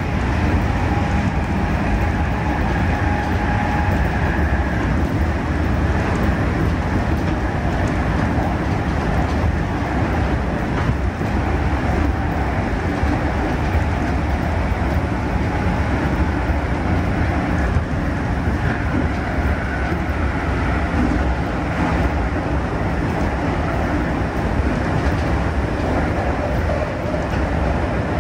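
JR East 211 series electric train running, heard from inside the passenger car: a steady rumble of wheels on rail and car-body noise, with faint high tones coming and going.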